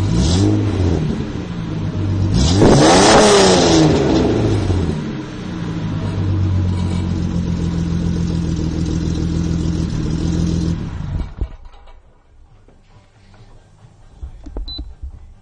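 Exhaust of a Mercedes-Benz 300SE (W126) straight-six with a new muffler: a short throttle blip, then a bigger rev that rises and falls, then steady idle. The engine sound stops about eleven seconds in, leaving only faint scattered noises.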